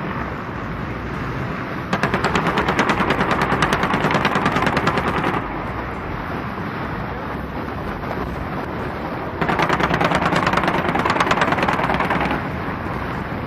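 Cobra attack helicopter's gun firing two long bursts of rapid automatic fire, each about three seconds long, with a steady noise bed between the bursts.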